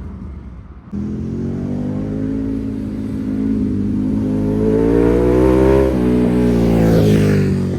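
Ducati Panigale V2's twin-cylinder engine through a full titanium exhaust, accelerating hard with its pitch climbing steadily. There is a brief dip about six seconds in, like an upshift, and the pitch falls near the end. The sound cuts in abruptly about a second in.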